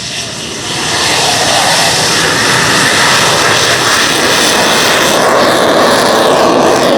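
Lockheed U-2's single F118 turbofan running at high power as the aircraft powers away from the runway after a touch-and-go. It is a loud, steady jet noise that swells about a second in and then holds.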